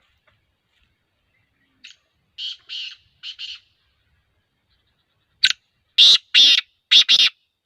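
Black francolin calling: two phrases of short, harsh, grating notes, a fainter one of about four notes and then a louder one of about five notes.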